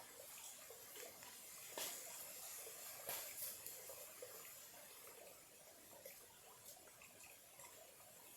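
Faint trickle of a small, clear stream, with many small irregular ticks of water and two slightly louder moments about two and three seconds in.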